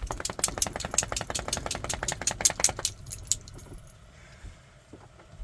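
A wet dog shaking itself off, its collar tags jangling in a fast, even rattle for just under three seconds before it stops.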